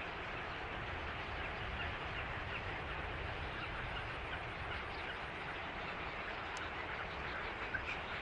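Dense chorus of many birds calling at once, many short overlapping calls, over a steady low rumble.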